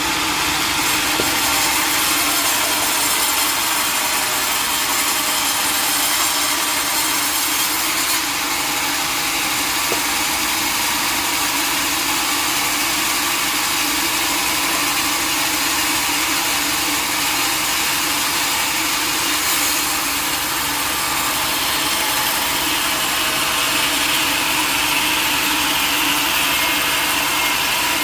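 Sawmill saw cutting a teak log, a loud, steady sawing noise with the machine's motor running underneath.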